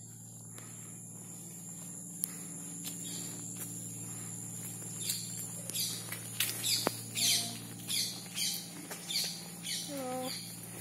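Steady high-pitched insect drone with a low hum under it. Partway through, a bird starts a run of short, quickly falling chirps about twice a second, ending with a lower falling call.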